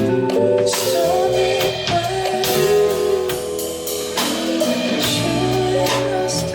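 Band music with guitar and drum kit playing steadily, and a voice singing over it without clear words.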